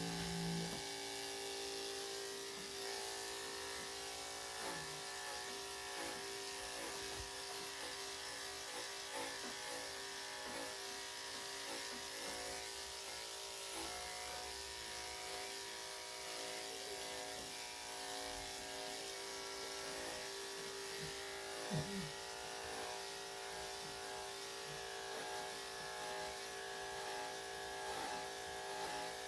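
Electric dog clippers with a #3 3/4 blade running with a steady buzz, their loudness swelling briefly again and again as the blade is drawn through the Yorkshire Terrier's coat.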